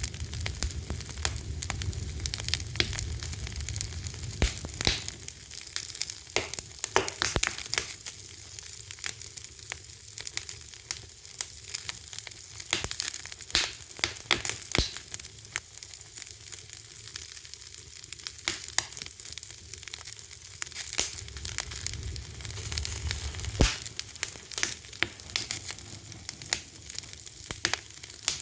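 Fire crackling: a steady hiss with frequent sharp pops and snaps, some much louder than others. Beneath it runs a low rumble that is stronger at the start and again about three quarters of the way through.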